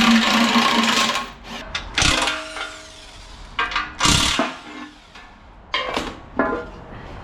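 Power tool run in four short bursts: about a second at first, then three shorter runs roughly two seconds apart.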